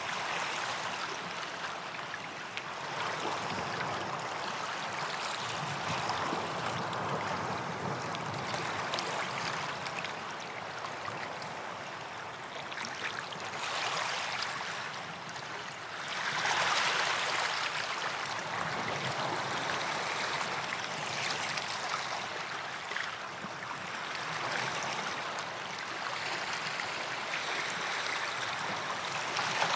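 Small waves washing on a sandy beach: a steady wash of surf that swells and eases, loudest about halfway through.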